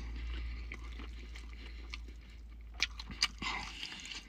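Close-miked chewing of extra-crispy fried chicken wings, bones included, with several sharp crunches around three seconds in.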